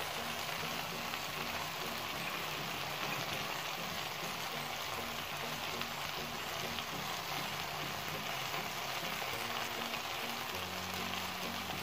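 Beaten egg and stir-fried vegetables sizzling steadily in an aluminium karahi while a spatula stirs the egg through them.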